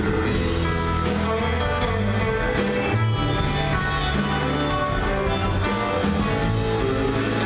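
Live band playing an instrumental passage, with electric guitar to the fore over bass and drums.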